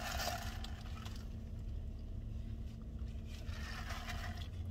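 Steady low hum of a car's engine idling, heard inside the cabin. A plastic straw scrapes and rustles in a plastic drink cup during the first second.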